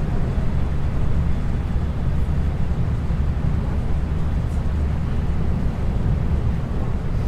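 Running noise inside a 521-series electric multiple unit (motor car KuMoHa 521-24) travelling between stations: a steady low rumble of the wheels on the rails and the car in motion.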